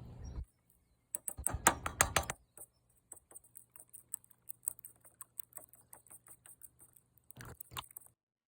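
Irregular small clicks and rattles, packed closely together and loudest about a second in, then scattered single ticks that stop shortly before the end.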